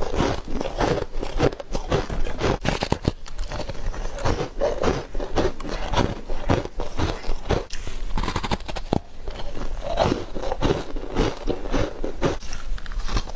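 Close-up biting and chewing of freezer frost and ice: a continuous run of crisp crunches and crackles, one bite after another.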